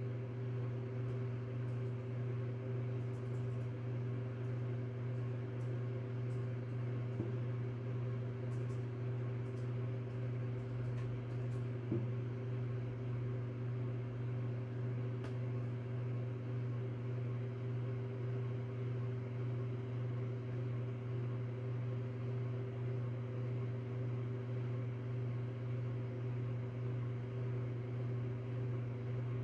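Steady low background hum with a few fixed tones, unchanging throughout, with a couple of faint clicks about 7 and 12 seconds in.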